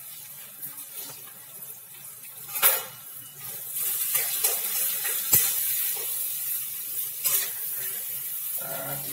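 Potatoes and spices sizzling in hot oil in an aluminium kadai. From about three and a half seconds in, a metal spatula stirs and scrapes against the pan and everything gets louder, with a couple of sharp clanks.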